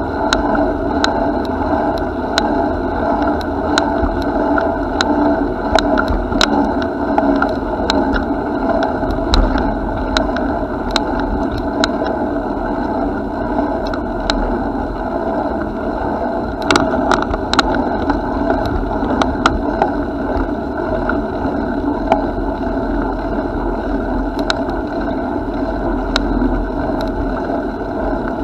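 Steady rolling noise from a bicycle being ridden, with frequent small clicks and rattles throughout.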